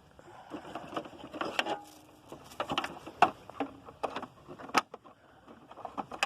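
Handling noises: irregular clicks, light knocks and rustling as an opened vacuum cleaner and its collected debris are handled, with a sharper click about three seconds in and another near five seconds.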